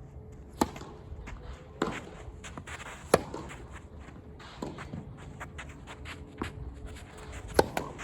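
Tennis ball impacts on racket strings and court, sharp knocks about every second and a half with fainter knocks between, as in a rally.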